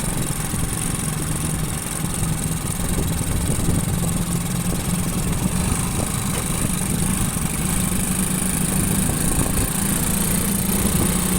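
Motorcycle engine running steadily under way, with a steady rush of wind and road noise.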